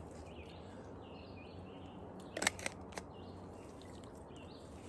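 Water bottle being handled during a drink: a few sharp clicks and taps about halfway through, over a quiet outdoor background.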